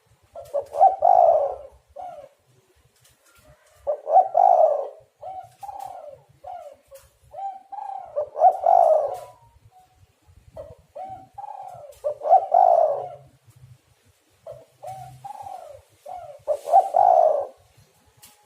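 Spotted dove cooing. The song phrase repeats about every four seconds: a few short coos, then a louder, longer coo.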